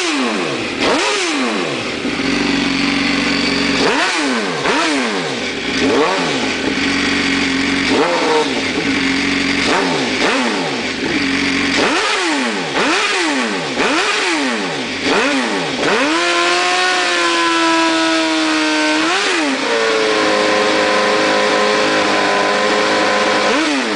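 MV Agusta F4 1000 S inline-four engine with a modified exhaust, revved in a string of quick throttle blips, each rising sharply and falling straight back. Near the end it is held at higher revs for about three seconds, then drops to a steady fast idle.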